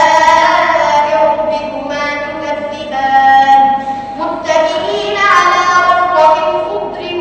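A child's high voice reciting the Quran in the melodic, drawn-out tajweed style, holding long ornamented notes, with a short breath break about four seconds in.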